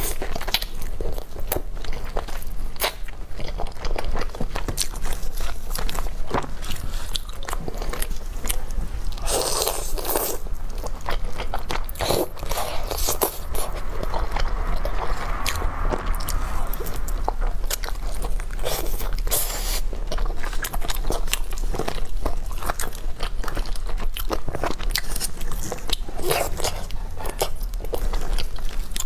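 Close-miked chewing and biting of sauce-coated chicken skin and meat: a steady stream of small mouth clicks and smacks. A few louder, noisier bursts come about a third and two-thirds of the way through.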